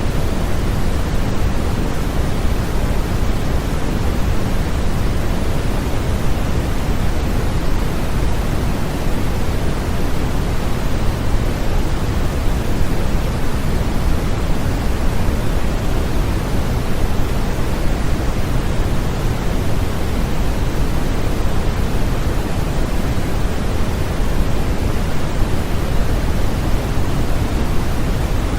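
Steady, unchanging sleep-aid white noise, a continuous hiss heavier in the low end than the high, like pink noise.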